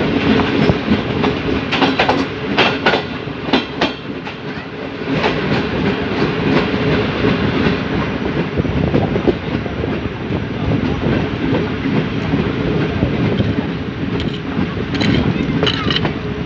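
Pakistan Railways Jinnah Express passenger coach running on the track, heard from its open door: a steady rolling rumble of wheels on rail, with clickety-clack from the wheels crossing rail joints and points, thickest in the first few seconds and again near the end.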